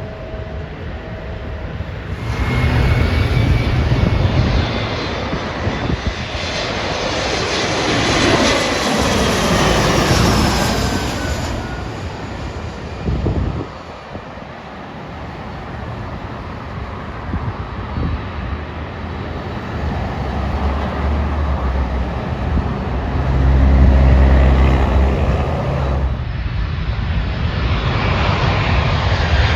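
Jet airliner engines running loudly as aircraft pass, a rushing roar with high whine tones that slide in pitch as a plane goes by. The sound changes abruptly about two seconds in and again near the end.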